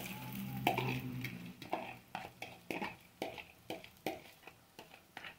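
Beaten egg and arugula frying in hot oil in a frying pan: a fading sizzle broken by irregular sharp pops and crackles, two or three a second, growing quieter.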